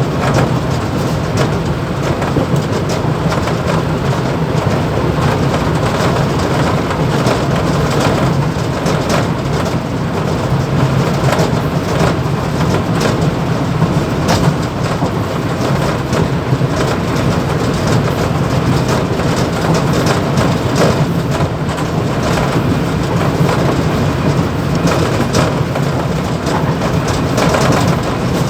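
Mumbai suburban EMU train running at speed, heard from inside the motorman's cab: a steady, loud noise of wheels on rail with constant rattling and clicking from the vibrating cab.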